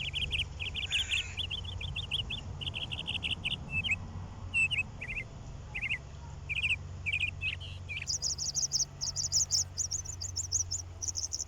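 Small bird chirping in clusters of short, rapid trills, jumping to a higher pitch about two-thirds of the way through. A steady low hum runs underneath.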